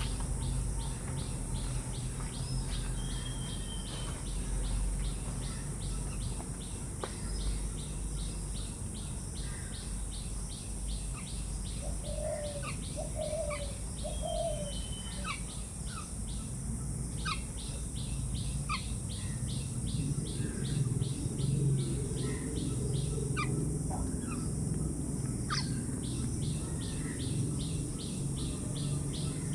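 Birds chirping in short, scattered calls, over a steady high hiss and a low rumble.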